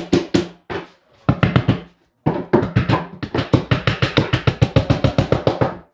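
Sharp repeated strikes on something that rings with a low tone: a few separate hits, then from about two seconds in a fast, even run of about seven hits a second that stops just before the end.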